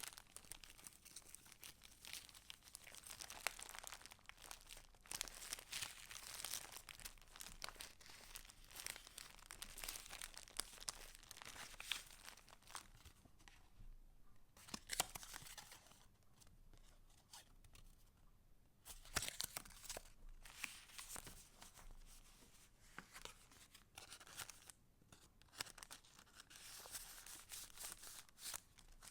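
Soft rustling and crinkling of the paper pages and inserts of a handmade junk journal as they are handled and turned. There are occasional sharp clicks and a few short pauses.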